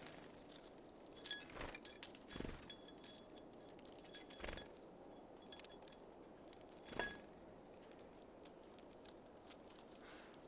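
Small birds at a seed feeder: a few sharp taps and knocks of birds landing and pecking at seeds, spread irregularly through the stretch, with faint high chip notes between them.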